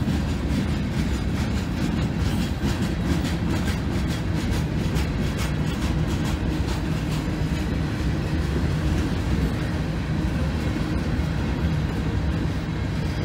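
Freight train cars rolling past over a grade crossing: a steady rumble of steel wheels on rail with irregular clicking and clatter.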